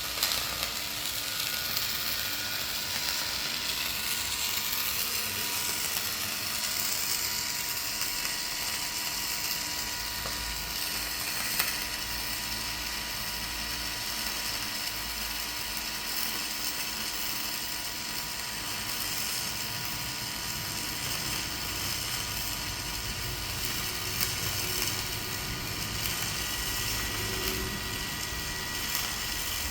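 Dual-shield flux-cored wire welding arc, a steady crackling sizzle held for a long continuous bead on a steel truck frame.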